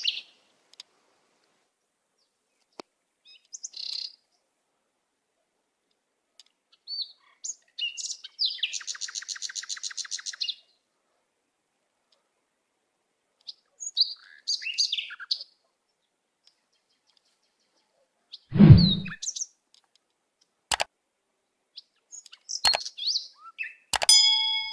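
Birds chirping and calling in short scattered phrases, with a rapid trill around nine to ten seconds in. A single heavy thump a little past the middle is the loudest sound, and a few sharp clicks follow near the end.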